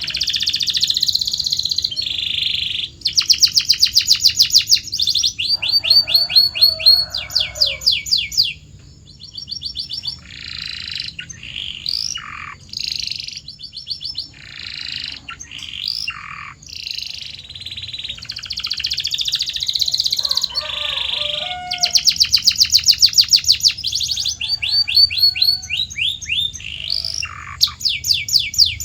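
Canary singing a long, unbroken song of fast trills and rolling phrases that change every second or two, with a few notes sliding downward.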